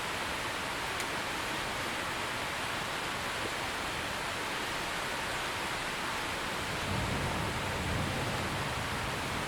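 Steady rain falling, an even hiss. About seven seconds in, a low rumble of thunder comes in under the rain and carries on.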